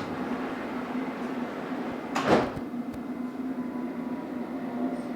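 Metropolitan line train's sliding passenger doors closing once, a short loud whoosh and thud about two seconds in, over the train's steady low hum.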